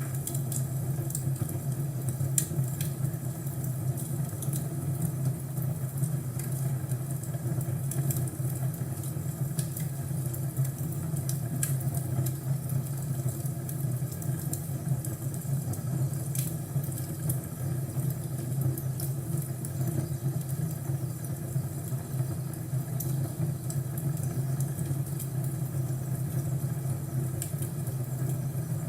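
Crackling fireplace: a steady low rumble of burning with scattered sharp pops and crackles throughout.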